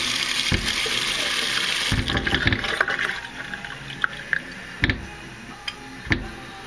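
Water running from a filtered-water tap into a container, strongest for about the first two seconds and then thinner, with a few short knocks as the container is handled.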